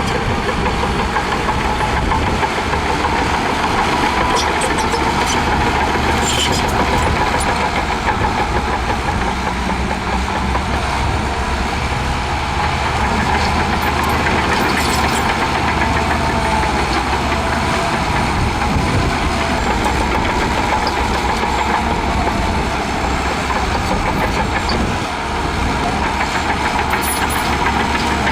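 Heavy diesel engine of a bulldozer running steadily under load, with a continuous mid-pitched whine over the low engine sound.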